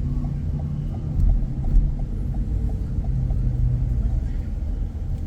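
A car driving, with a steady low rumble of engine and road noise. A light, regular ticking about three times a second runs through the first three seconds.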